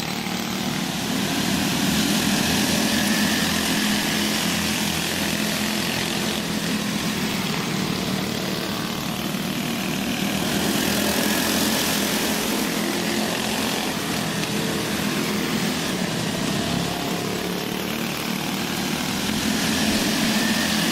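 Several go-kart engines running as the karts lap a dirt track, the mixed engine drone swelling and fading in level as they come and go.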